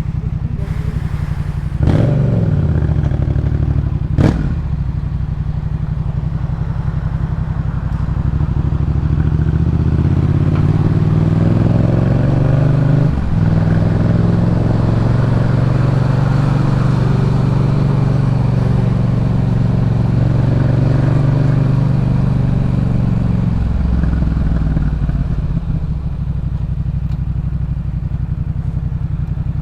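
Yamaha MT-07 parallel-twin engine running through a Jeskap K4 full aftermarket exhaust while riding. Two sharp cracks come in the first few seconds. The engine then pulls up through the revs, with a brief break about 13 seconds in like a gear change, holds steady and eases off near the end.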